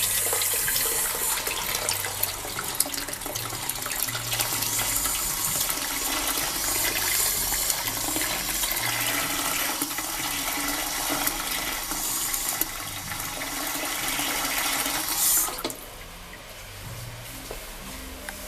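A Trent toilet flushing: a long, steady rush of water that cuts off sharply about fifteen seconds in, leaving a quieter hiss.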